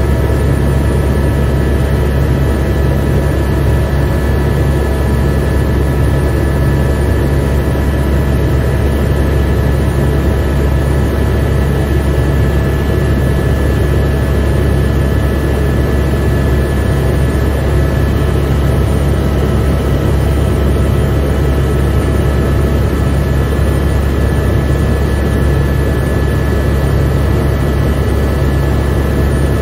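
Helicopter heard from inside the cabin: a steady, loud, deep rotor and engine drone with a steady whine of several high tones over it, unchanging throughout.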